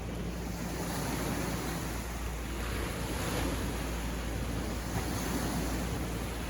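Sea waves breaking and washing on a beach, a steady rush of surf that swells gently, with some wind noise on the microphone.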